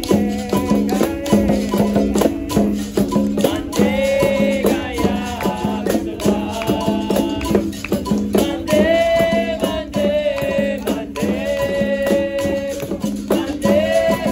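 Capoeira roda music: berimbau and rattle with regular hand-percussion strokes, and singing on long held notes that comes in about four seconds in.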